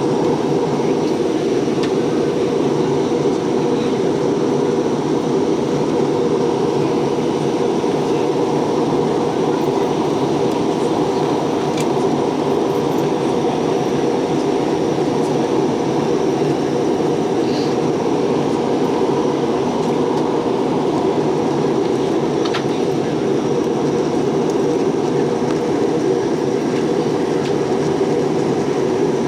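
Steady airliner cabin noise in flight: an even, unbroken rumbling hiss of engines and airflow.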